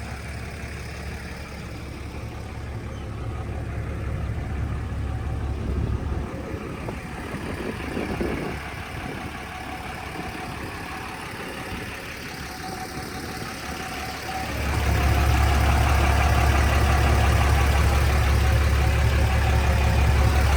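A 2012 Ram 2500's 6.7-litre Cummins inline-six turbodiesel idling steadily. The low rumble gets noticeably louder about two-thirds of the way through and stays that way.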